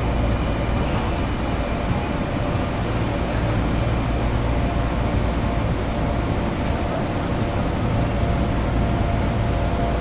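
Keio Line electric commuter train running, heard from on board: a steady rumble of the carriage and track with a faint steady whine over it.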